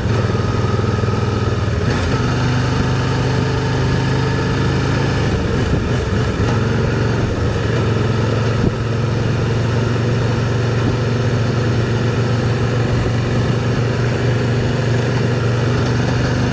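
Can-Am Spyder three-wheeled motorcycle's engine running at a steady, unchanging pitch.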